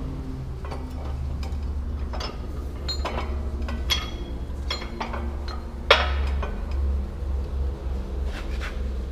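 Metal tools and parts clinking and knocking against each other, a dozen or so separate sharp strikes with the loudest about six seconds in, over a steady low hum.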